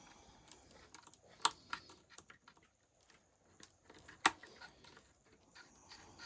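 Scattered light clicks and taps of hand tools and small parts on the Traxxas XRT RC truck's chassis while a stuck bulkhead bolt is worked at, with two sharper clicks about a second and a half in and about four seconds in.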